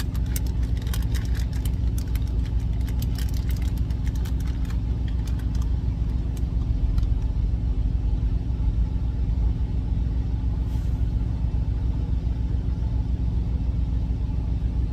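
Truck engine idling with a steady low hum, with light clicks and scrapes of a utensil mostly in the first few seconds.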